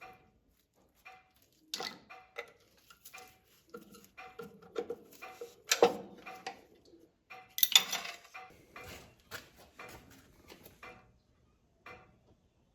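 Metal parts and tools clinking and knocking against each other: an irregular string of sharp clinks, some with a short metallic ring, with the loudest knocks about halfway through and again a couple of seconds later.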